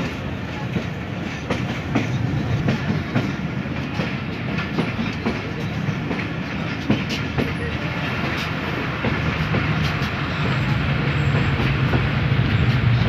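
Passenger train running, heard from inside a carriage by an open window: a steady rumble of wheels on rails with irregular clicks and clacks, growing louder about ten seconds in.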